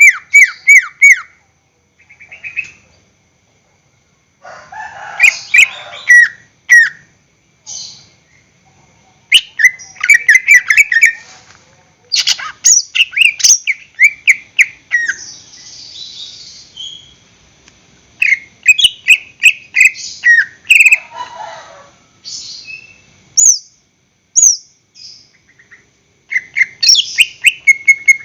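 Cucak ijo (green leafbird) singing loudly in repeated bursts of quick, downward-sliding chirps, broken by short pauses, with a couple of harsher, rasping phrases mixed in.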